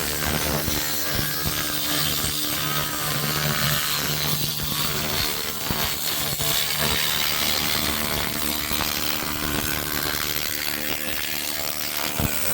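300 W pulsed laser cleaner working over metal engine parts: a steady, dense crackling hiss with a low hum underneath.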